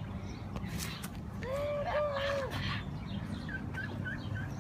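Chicken calls: one drawn-out call about one and a half seconds in, then a quick run of faint short peeps near the end.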